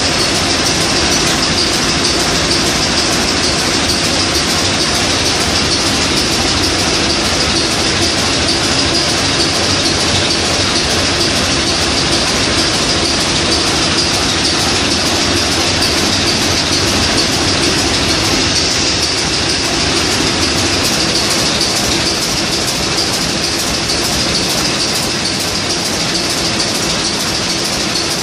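Old Niigata 750 kW marine main diesel engine running loud and steady, its even mechanical noise unchanging throughout.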